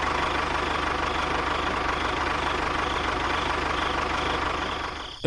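Small engine idling steadily, with a fast, even beat.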